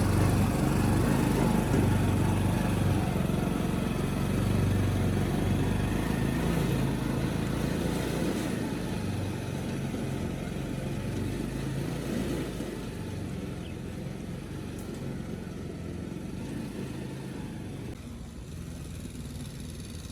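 Motorcycle engine running at a steady low speed, growing gradually fainter as it moves away.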